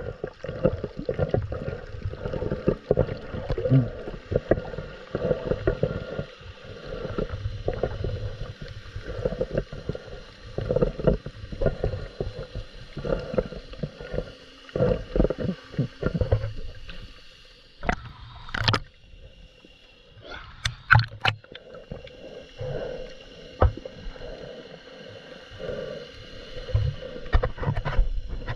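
Underwater bubbling and irregular knocking, muffled through a GoPro's waterproof housing: scuba bubbles rumbling for about the first 17 s. It then turns quieter, with a few sharp clicks.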